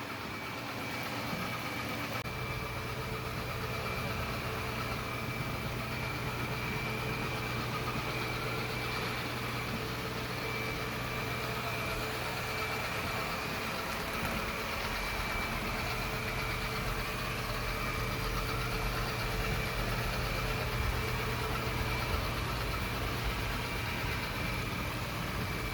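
Yeedi Vac 2 Pro robot vacuum running while it vacuums and mops, a steady hum with a thin high whine over it.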